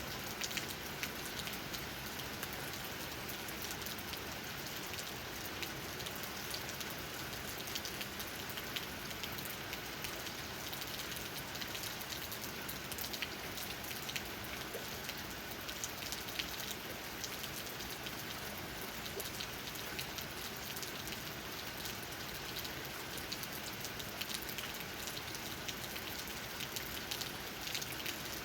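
Steady rain with many raindrops tapping on tree leaves, an even wash of small, scattered drop hits.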